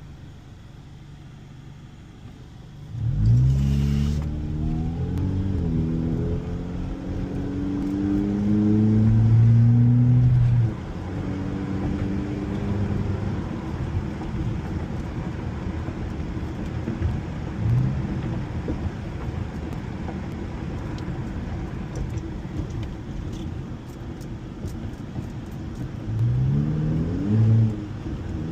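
Honda car's engine idling low, then accelerating hard from about three seconds in, its pitch climbing and dropping back several times through the gear changes before easing off. The car then cruises with steady road noise, and the engine revs up through the gears again near the end.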